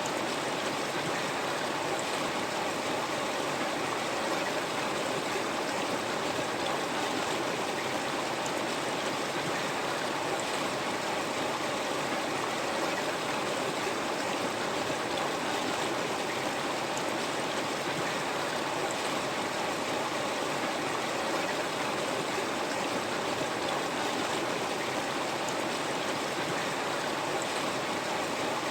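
River water flowing steadily over rocks, an even rushing and babbling that doesn't change.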